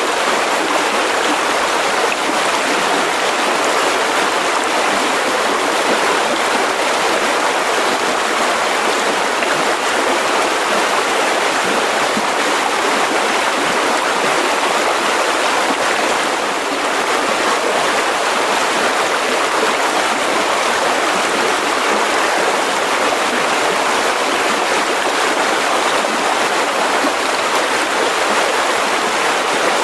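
Mountain river rushing over rocks, a steady, even rush of water.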